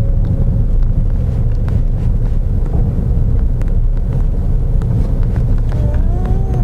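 Steady low rumble of a car on the move, with wind buffeting the microphone.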